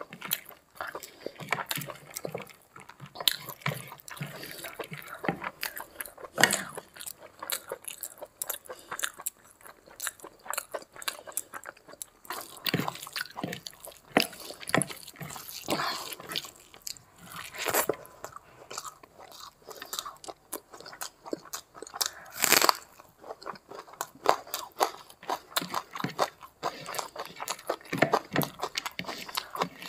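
Close-miked chewing of rice and curry eaten by hand: a dense, irregular run of short wet clicks and crunches.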